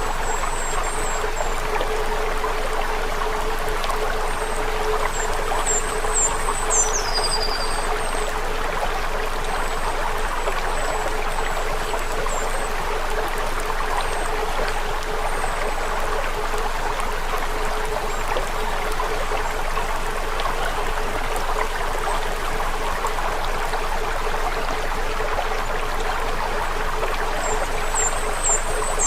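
Steady rushing of running water like a stream, under a low steady hum, with scattered high chirps and a quick falling whistle about seven seconds in and again near the end.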